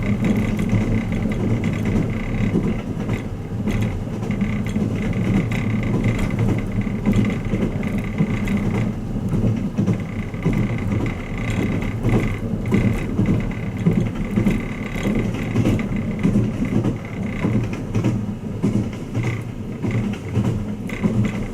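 Running noise of the Twilight Express Mizukaze train heard inside a passenger room: a steady low rumble with faint irregular clicks and a thin steady high tone.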